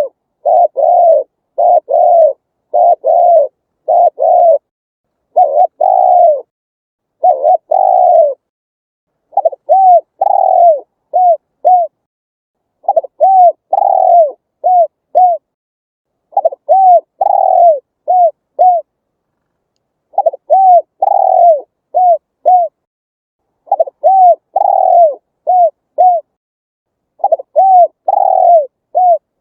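Spotted dove cooing. In the first eight seconds comes a quick run of coos; after that comes a repeated phrase of two longer arched coos followed by two short ones, every three to four seconds.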